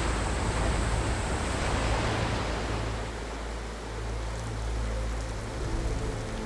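Heavy tropical downpour: a dense, steady hiss of rain that eases somewhat about three seconds in, over a low steady rumble.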